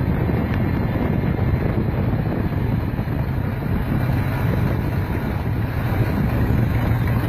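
1986 GMC truck's engine running steadily while a little water is drawn into its intake to steam carbon deposits off the valves.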